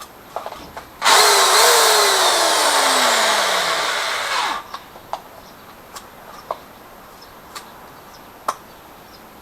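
Electric power drill running for about three and a half seconds, its pitch falling steadily, then stopping. A few light clicks and knocks follow.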